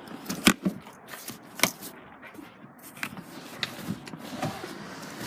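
A series of sharp clicks and knocks, about eight spread unevenly over the few seconds, the loudest about half a second and a second and a half in.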